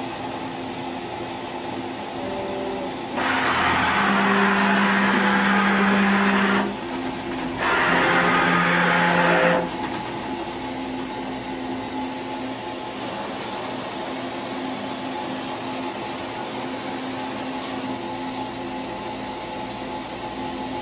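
Axes of a Daewoo DMV5025-50 CNC vertical machining center traversing over the machine's steady hum: two louder moves, one about three seconds in and one around eight seconds, each with a servo motor whine and the hiss of the telescoping way covers sliding. The cover noise is a good sign: it shows the way wipers are still in good condition.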